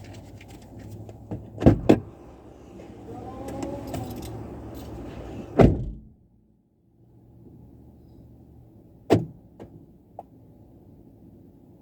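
Several sharp thumps over a low steady hum: a close pair about two seconds in, a loud one near six seconds and another near nine, followed by a couple of small clicks. The sound drops out almost completely for about a second after the third thump.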